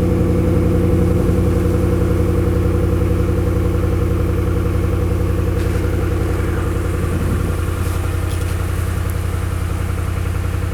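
2011 Dodge Ram 1500's 5.7-litre Hemi V8 idling steadily through a 14-inch Mufflex muffler, cold after three days of sitting, easing slightly quieter as it runs.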